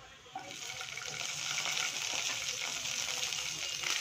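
Chopped green capsicum (bell pepper) dropped into oil and garlic in a frying pan, sizzling. The sizzle starts about half a second in and swells to a loud, steady hiss.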